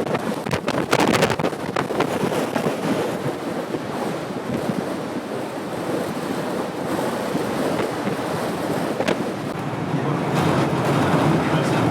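Gale-force wind blowing hard and buffeting the microphone, with sharp crackling gusts in the first couple of seconds and once more later.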